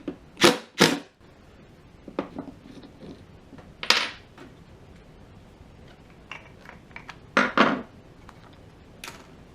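Small metal brake-caliper parts and hand tools clinking and clattering as the caliper is taken apart: sharp knocks about half a second and one second in, another around four seconds, a pair around seven and a half, and one near nine, with lighter ticks between.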